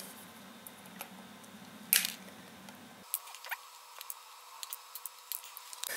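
Diagonal side cutters snipping the excess leads of soldered LEDs and components off a circuit board: sharp clicks, one loud snip about two seconds in and several fainter ones in the second half.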